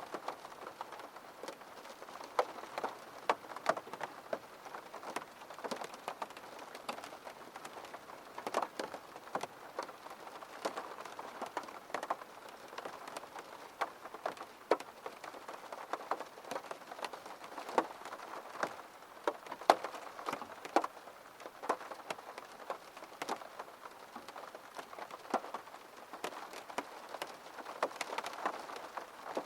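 Rain pattering on a window: a steady hiss of rainfall with many separate drops ticking irregularly on the glass.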